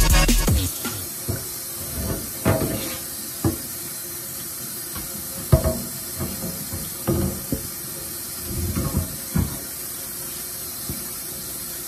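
Tap water running steadily from a kitchen faucet onto metal stove grates in a stainless steel sink, with scattered short clunks as the grates are handled and knock against the sink.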